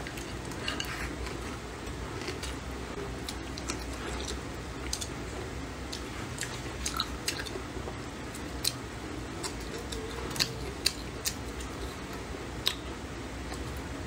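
Close-up eating sounds: chewing and biting on cured pork, eggplant and rice, with many short, scattered clicks and smacks.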